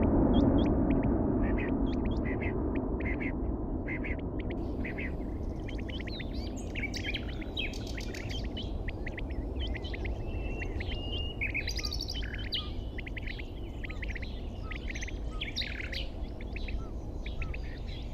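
Many birds chirping and trilling in quick short calls over a steady low rumble.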